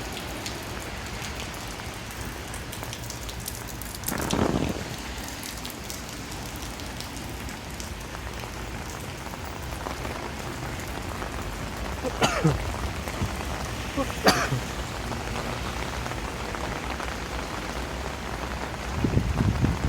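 Steady rain falling on the street, with a few brief sounds standing out about 4, 12 and 14 seconds in. Near the end, low wind buffeting on the microphone.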